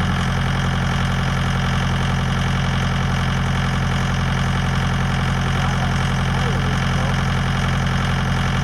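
Small tractor engine idling steadily.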